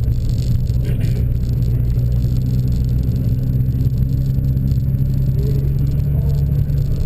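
Car engine running steadily at low speed, heard from inside the cabin as an even low drone that does not rev up or down.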